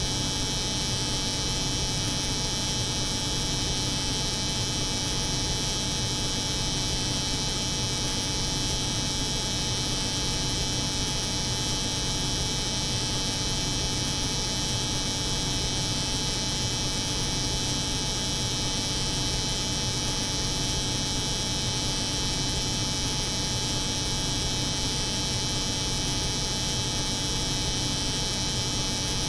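Electric hair clipper buzzing steadily, layered with the constant hum of a cold room, unchanging throughout.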